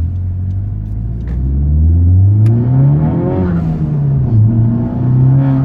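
Honda Civic Type R FK8's 2.0 turbocharged four-cylinder running through an Armytrix valved aftermarket exhaust. The engine note rises over about two seconds under acceleration, drops back a little past the middle, then holds steady.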